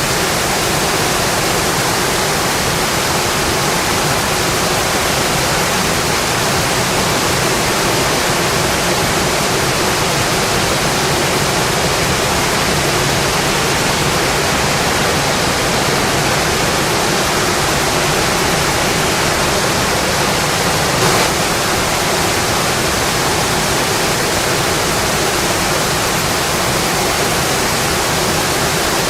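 Steady rainfall, an even hiss with no let-up. There is a single brief faint tick about three-quarters of the way through.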